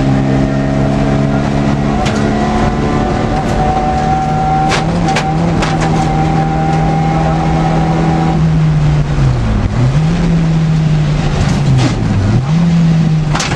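Škoda 100 rally car's rear-mounted four-cylinder engine running hard under way, heard from inside the cabin. It holds a steady pitch for about eight seconds, then the pitch dips and climbs back twice near the end. Occasional sharp knocks and rattles from the car's body come through over it.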